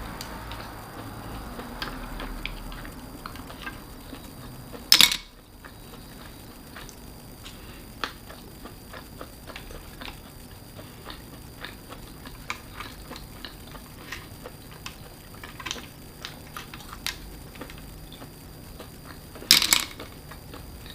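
Close-miked mukbang eating of manila clams and baby octopus: chewing with frequent small clicks and taps. Two much louder sharp knocks come about five seconds in and near the end.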